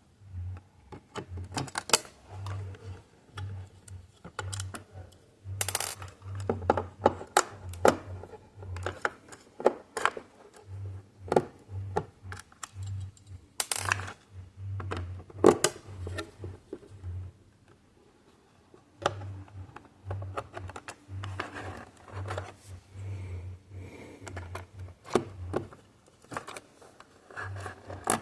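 Irregular plastic clicks and taps from handling an audio cassette shell as its small screws are removed and the case is opened, with a low hum that comes and goes.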